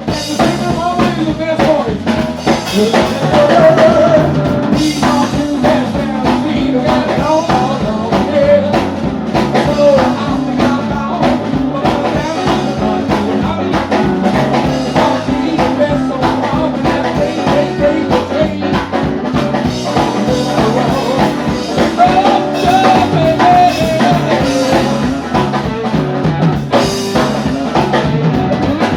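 A blues-rock band playing live, with a drum kit keeping a steady beat under guitar and a wavering lead melody line.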